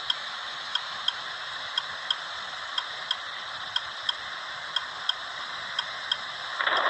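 Steady clicking of a vehicle's turn-signal or hazard flasher, in pairs about once a second, over a steady hiss. A louder rushing noise comes in near the end.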